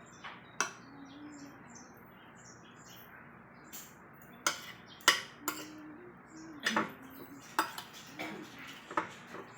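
Spoon and fork clinking against a plate while eating, about eight sharp clinks scattered through, most of them in the second half. Faint bird chirps in the background.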